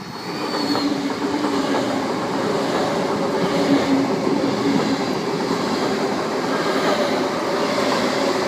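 Sydney Trains Tangara double-deck electric train passing through the station without stopping, a steady rumble of wheels on rails that builds up over the first second or two.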